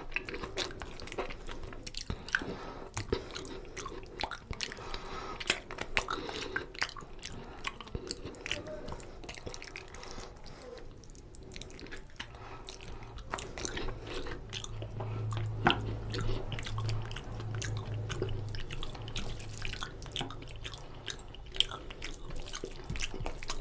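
Close-up chewing and biting as a person eats oily mutton curry and rice by hand, with many small clicks and smacks. A low hum rises beneath it about halfway through and fades later.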